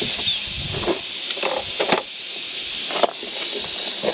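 Air hissing steadily out of a punctured 4WD tyre, with a few light knocks of the tool working the hole.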